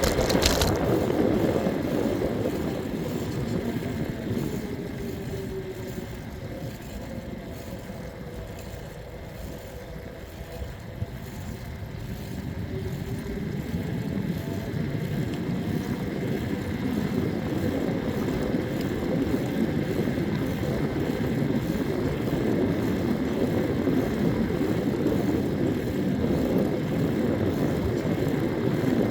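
Wind and road noise from riding a bike. It eases off about a third of the way through and builds back up. During the quieter middle stretch a faint engine drone falls and then rises in pitch.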